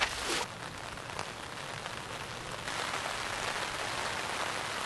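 Steady rain falling, an even hiss that gets louder a little past halfway through.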